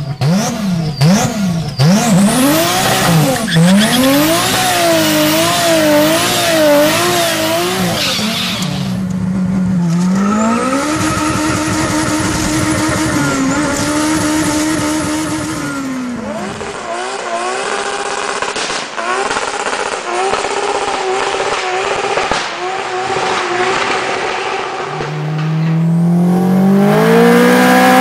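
Tuned turbocharged car engines revving and accelerating in several short clips one after another: quick rev blips at first, then wavering revs, a long rise in pitch held high, and another rising pull near the end.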